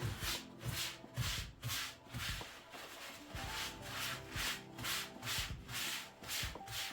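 Rhythmic rubbing strokes, about two to three a second, each a short swish, over soft background music.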